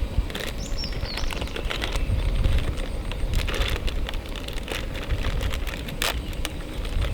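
Small campfire crackling with scattered sharp pops and clicks, over a steady low wind rumble on the microphone.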